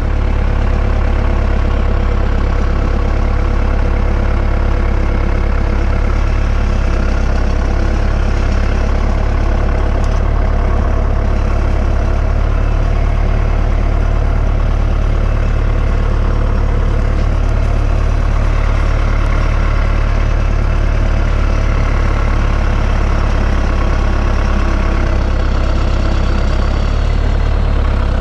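Tractor engine idling steadily with a loud, even low hum, heard close.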